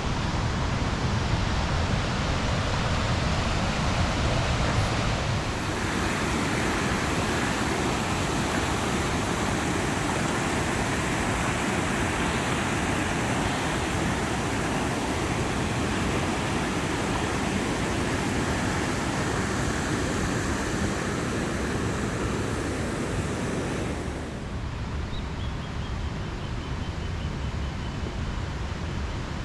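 Waterfall rushing steadily, running full after heavy rain. The rushing gets brighter about five seconds in and turns duller and a little quieter near the end.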